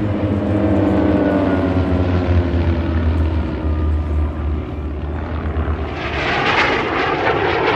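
Formation of propeller airplanes flying past, the engine drone dropping in pitch as they go by, followed by a louder rushing engine noise near the end.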